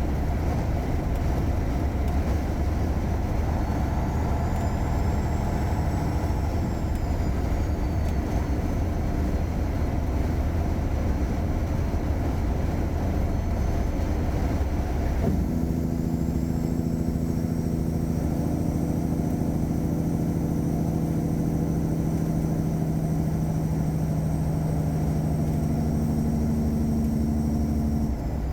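Caterpillar 3406E diesel engine of a 1999 Freightliner Classic truck running steadily while driving. About halfway through the sound changes suddenly to a smoother drone with clear low tones.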